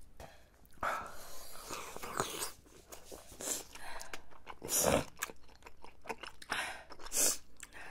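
Close-up eating sounds: chewing and slurping of spicy tteokbokki rice cakes in sauce, wet mouth noises with scattered small clicks, a few bursts louder than the rest.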